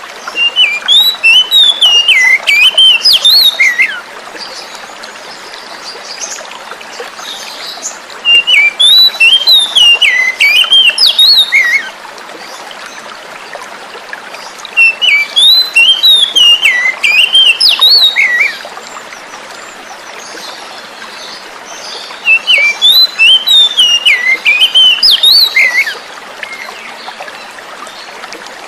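Oriental magpie-robin (kacer) song: four bursts of quick, varied chirps and whistles, each about three to four seconds long, repeating every seven or eight seconds. A steady hiss of running water sits underneath.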